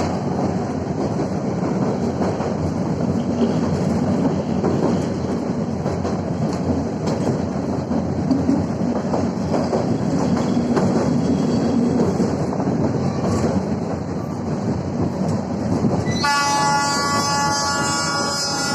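Train running along the track with a steady rumble and the clickety-clack of the wheels over rail joints. Near the end a train horn sounds, one long steady blast lasting about two and a half seconds.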